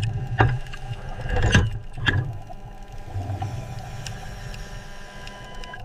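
A low, steady machinery rumble, with three sharp knocks in the first two seconds.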